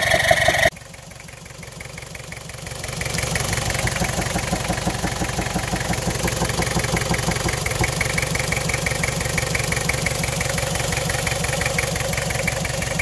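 Toyota Land Cruiser's 2L-TE four-cylinder turbo-diesel engine idling with an even, rapid beat. The sound drops suddenly under a second in, then grows louder about three seconds in and holds steady.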